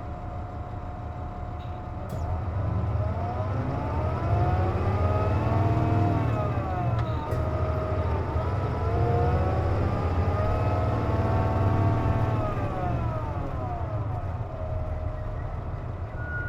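Interior sound of a KC-JP250NTN city bus on the move: a whining tone climbs as the bus accelerates, drops about six seconds in as if through a gear change, climbs again and falls away toward the end, over a steady engine rumble. The whine is the bus's known abnormal noise, which the uploader links to the air conditioning running.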